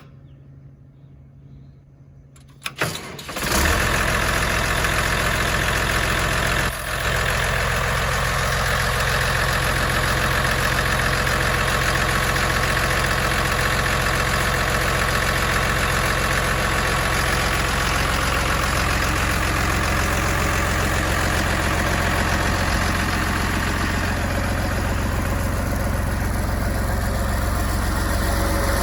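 Reed C50HPS concrete pump's engine starting after a few seconds of quiet, catching within about a second, then running steadily at idle, with one brief dip about seven seconds in.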